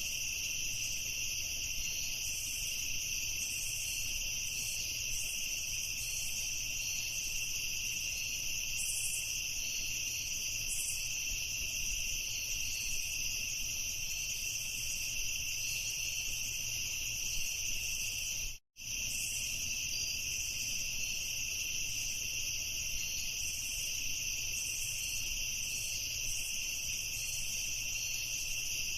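Crickets chirping in a dense, steady chorus. About two-thirds of the way through, the sound cuts out completely for a split second, then resumes.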